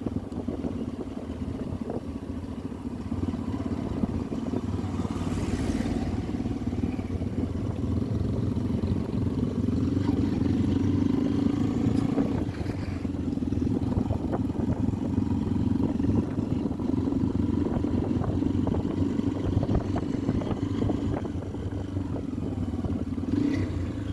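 Motorcycle engine running steadily while riding, getting a little louder through the middle.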